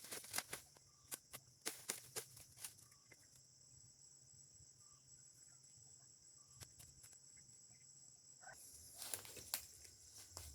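Steady, faint, high-pitched insect drone that shifts higher about eight seconds in, with scattered sharp clicks and rustles, like steps on dry litter, in the first few seconds and again near the end.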